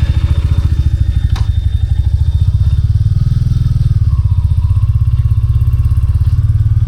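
Royal Enfield Classic 350's single-cylinder engine running steadily just after being started, a low, even, rapid pulsing beat, with one sharp click about a second and a half in.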